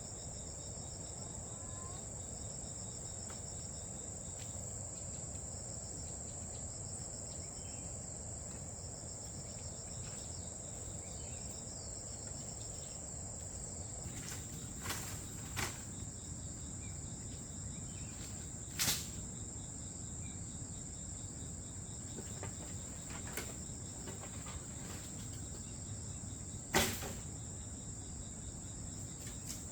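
Insects chirring steadily in a high, unbroken drone, with pulsed chirps in the first half. A few sharp knocks break in during the second half; the two loudest come about two-thirds of the way through and near the end.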